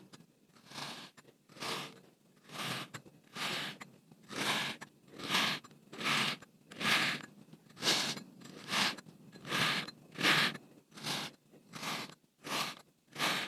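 Kinetic sand being cut with a knife: a crunchy scraping stroke about once a second, coming a little quicker near the end.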